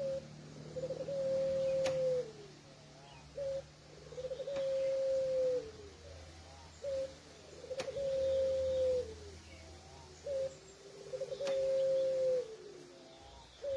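Puter pelung, a long-cooing strain of the Barbary dove, cooing four times about three and a half seconds apart. Each call is a short note, then a stuttering lead-in and a long steady coo that drops in pitch at the end.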